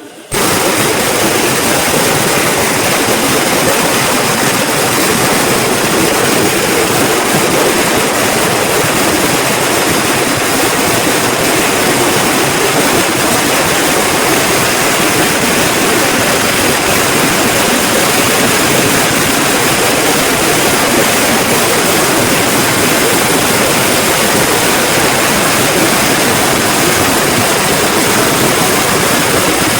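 A long string of firecrackers going off, starting suddenly and running on as a loud, dense, unbroken crackle of bangs.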